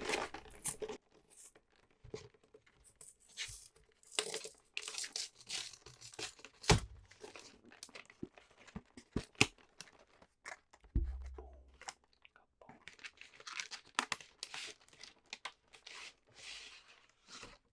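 Plastic shrink wrap being torn and crinkled off a cardboard Pokémon Premium Collection box, with scattered taps on the box. There is a sharp knock about seven seconds in and a dull thump about eleven seconds in.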